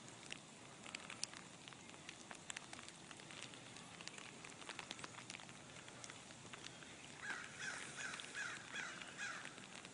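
Sleet pellets ticking steadily on surfaces in a faint patter of tiny clicks. Near the end, a bird gives a quick run of about eight harsh repeated calls.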